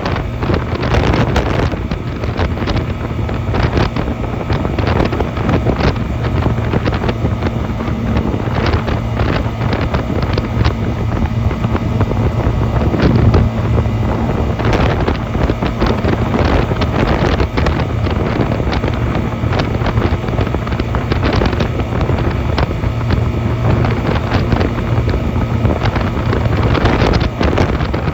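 Honda 250cc motorcycle engine running at a steady pace while riding, with wind buffeting the microphone.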